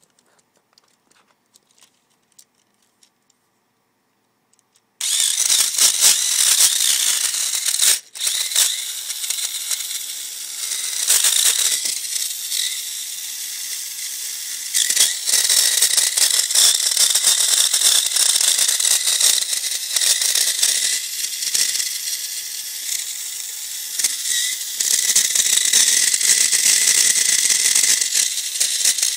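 Tamiya Mini 4WD car with a Beak Spider body running: a high-pitched motor and gear whine mixed with a rattling, squealing rub where the body touches the tyres. It switches on suddenly about five seconds in, cuts out for a moment about three seconds later, then runs on, rising and falling.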